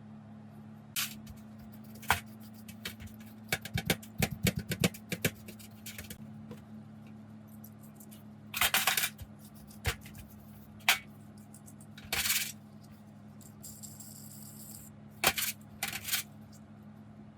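Small metal parts clinking, rattling and scraping as they are handled, with a quick run of clicks a few seconds in, over a steady low hum. A brief high hiss comes near the end.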